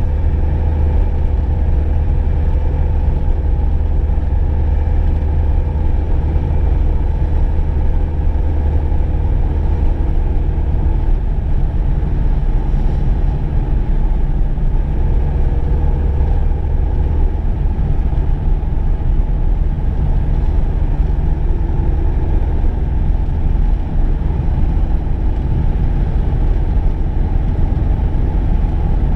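Cabin noise of a VW Golf Mk2 on the move: a steady deep rumble of engine and tyres, with a faint engine hum in the first half.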